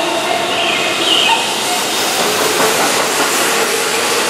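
Keihan Electric Railway electric train running past along a station platform: a steady rumble and hiss of wheels on the rails, with a brief high tone about a second in.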